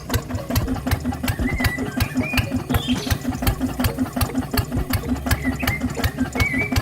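Small tractor engine running steadily with a regular knocking beat, about six knocks a second. A few short birdlike chirps come over it.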